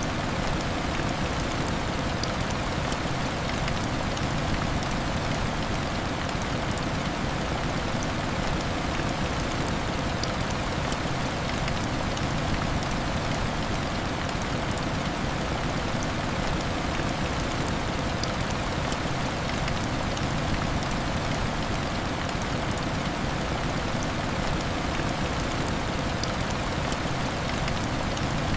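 Steady heavy rain hitting a window: an even, continuous hiss with scattered small ticks of drops.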